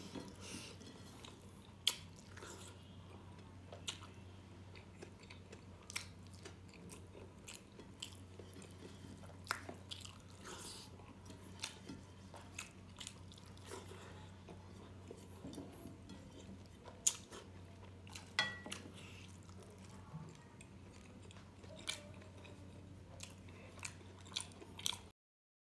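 A person eating rice and gravy by hand, close up: chewing with scattered sharp wet mouth clicks, over a steady low hum. The sound stops abruptly near the end.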